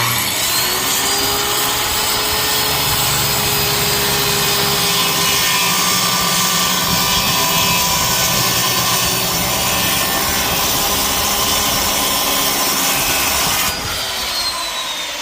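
Electric power saw cutting through 3/4 inch birch plywood. The motor starts suddenly and spins up, runs steadily through the cut, then winds down about a second before the end.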